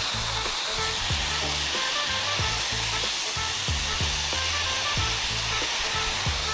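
Steady hiss of a pressure washer spraying during a car wash, under background music with a bass line and a regular kick drum.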